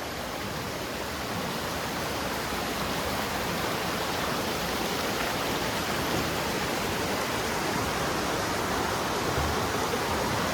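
Steady, even rushing of falling water from Dudhsagar Falls.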